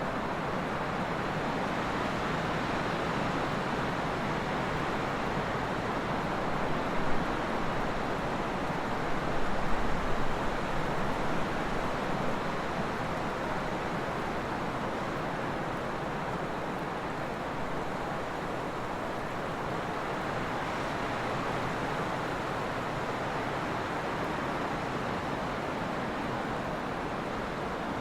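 Trade wind blowing steadily in a constant rushing hiss, with a couple of stronger gusts about a quarter to two-fifths of the way in.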